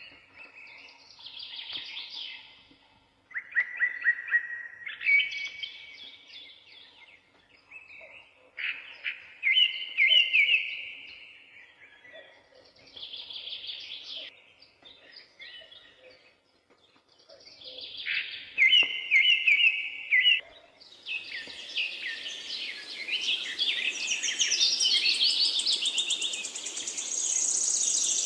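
Songbirds singing in separate phrases of rapid trills and chirps, with short pauses between them. About three quarters of the way in, the song thickens into a dense chorus of overlapping birds over a steady hiss.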